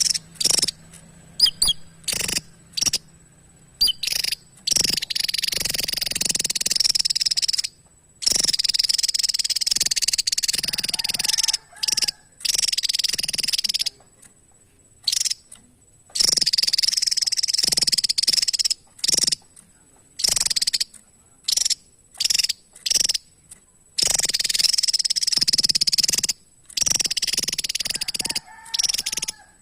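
Javan tesia singing: short, sharp high notes alternating with long, dense, rasping trills that run for several seconds at a time, stopping and starting again.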